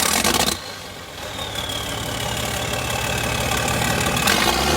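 Engine running steadily at idle, with a faint whine falling in pitch through the middle.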